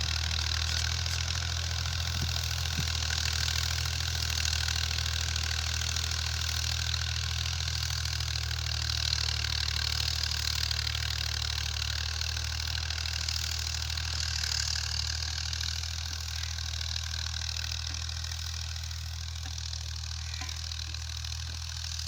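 Tractor diesel engine running steadily at idle, a constant low hum with a hissy upper layer that eases a little about two-thirds of the way through.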